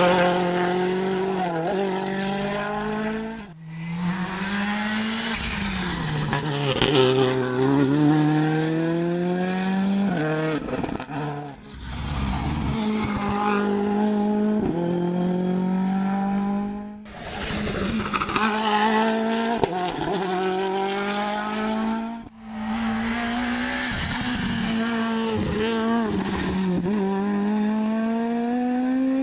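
Rally cars driven hard on a special stage, one after another: engines revving high and falling back through gear changes. The note rises and drops repeatedly, with abrupt switches between cars.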